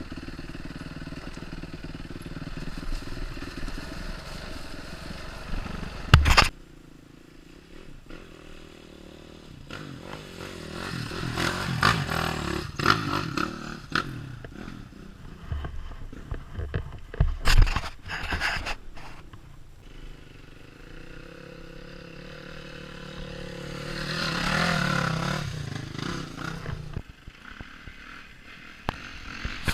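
Off-road motorcycle engine running on a rough trail, its pitch rising and falling with the throttle, with sharp knocks and clatter about six seconds in and again around seventeen seconds in, and a rev that swells and fades around twenty-five seconds in.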